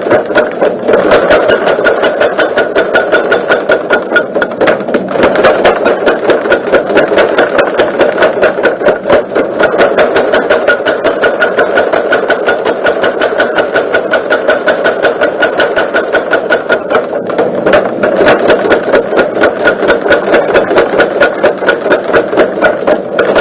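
Homemade forging power hammer running, striking in a steady fast rhythm of about four to five blows a second.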